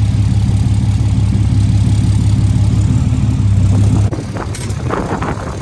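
Tow truck's tuned diesel engine running loud and steady at a fast idle, its level dropping abruptly about four seconds in.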